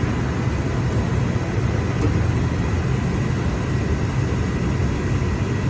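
Mercedes-Benz CLS550's V8 engine running steadily: a low rumble with a faint, steady thin whine above it.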